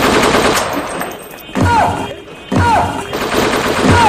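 Gunfire sound effect: a rapid machine-gun rattle, then three single shots about a second apart, each with a thump and a short falling whine.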